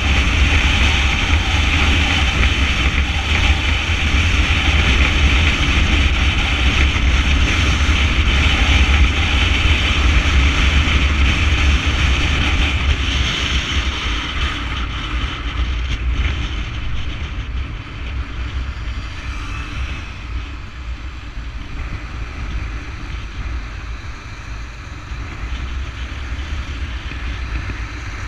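Wind buffeting the microphone over the steady road and engine noise of motorcycles riding in convoy. It eases noticeably about halfway through.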